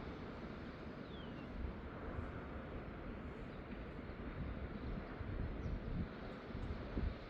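Wind gusting on the microphone over a steady wash of sea noise from the shore, with a single short falling whistle about a second in.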